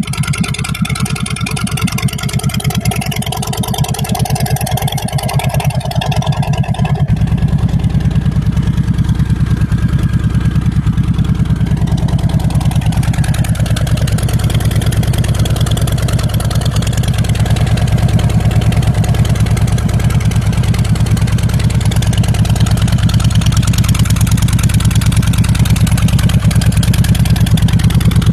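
Harley-Davidson V-twin motorcycle engine running steadily with an even, rapid pulse of firing strokes; the sound grows deeper and fuller about seven seconds in.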